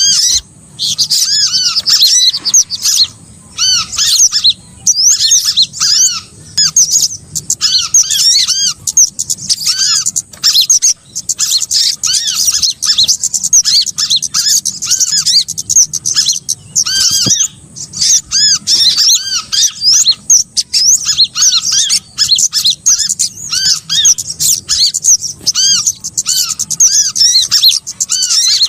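Bird-lure recording of small songbirds calling: dense, overlapping high chirps made of short rising-and-falling notes, repeated rapidly by several birds at once.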